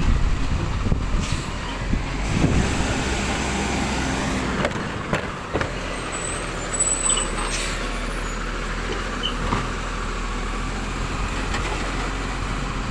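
Rubbish truck's diesel engine running steadily, with a few sharp knocks about four to seven seconds in and a high hiss a couple of seconds in.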